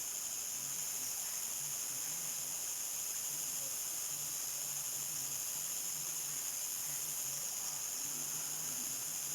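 Crickets singing at dusk: a steady, high-pitched chorus, with a faint low pulsing call repeating underneath.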